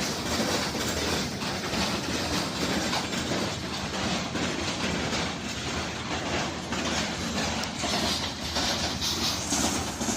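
Train running past on the rails: a steady rumble and rush of wheel noise, with faint regular clatter.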